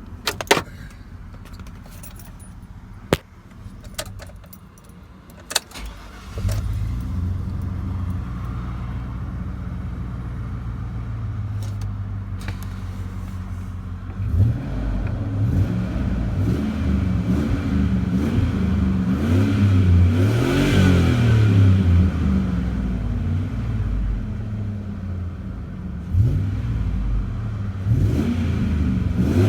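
A few sharp clicks and keys jangling, then a GMC Yukon's engine starts about six seconds in and runs steadily. From about halfway its revs rise and fall repeatedly, as in a test drive after a new camshaft position sensor and a cleared P0343 code.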